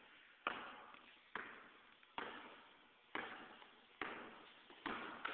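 A basketball dribbled slowly and steadily, about one bounce a second, each bounce echoing.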